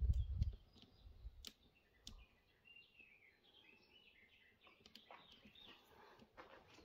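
A small bird chirping faintly in a quick run of short twittering notes, midway through. A low thump right at the start and a few sharp clicks break in around it.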